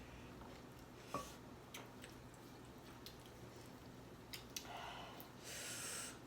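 Quiet eating sounds of someone chewing fried chicken wings: a few scattered clicks and smacks, the sharpest about a second in, then a short breathy hiss near the end.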